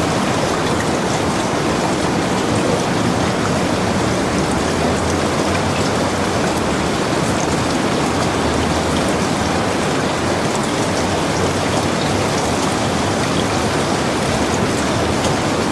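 Heavy rain falling steadily on a log cabin, an even hiss with scattered drop ticks.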